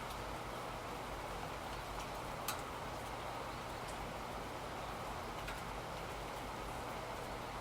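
Steady rain falling, an even hiss, with a few sharp ticks like single drips, the loudest about two and a half seconds in.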